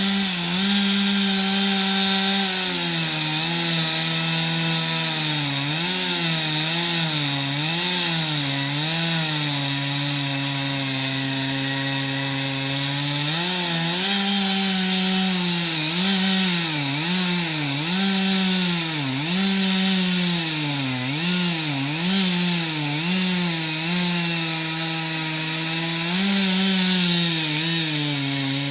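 Two-stroke chainsaw at full throttle cutting wood. Its high engine note sags again and again as the chain bites into the wood and picks back up between cuts.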